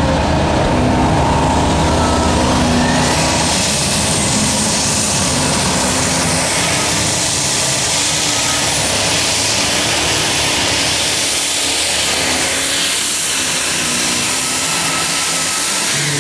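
Unlimited Super Stock pulling tractor engine running hard at full throttle, loud and sustained. A dense, high hiss builds up about three seconds in and holds until shortly before the end.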